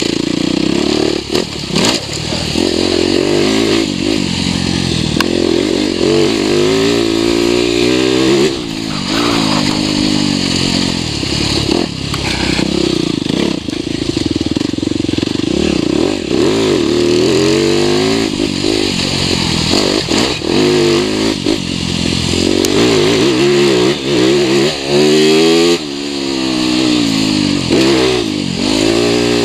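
2021 TM 300 enduro motorcycle engine under load on a dirt track, revving up and backing off over and over as the rider throttles on and off, its pitch rising in repeated sweeps with short drops between.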